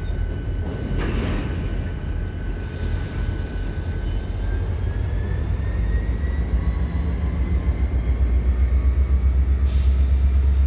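Locomotive running, its low engine rumble growing louder and pulsing toward the end, with a whine that slowly rises in pitch. There are short hisses about a second in and near the end.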